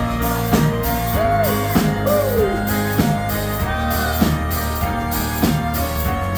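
Live rock band playing an instrumental passage: drum kit keeping a steady beat, a hit about every 0.6 s, under sustained guitar or keyboard chords with a few sliding notes.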